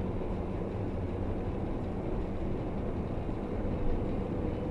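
Steady engine and road noise heard from inside a moving vehicle's cabin, a low even rumble.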